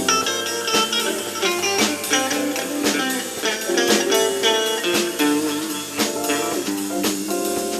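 Live band music with a guitar to the fore, in a bluesy style.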